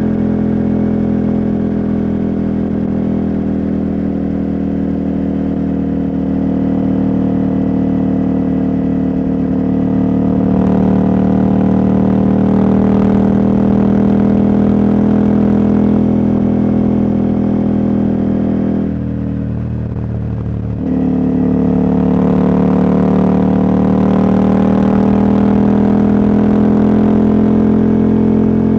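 Husqvarna Norden 901's parallel-twin engine, catalytic converter removed, running under way on the road. Its note climbs gradually, drops back for about two seconds late on, then picks up and climbs again.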